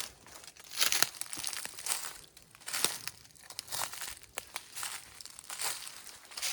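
Footsteps crunching and crackling through dry leaf litter and brush, about one step a second.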